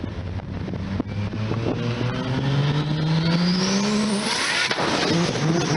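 Car engine accelerating hard, its note climbing steadily for about four seconds, then dropping as it shifts gear and climbing again, with a high whine rising alongside.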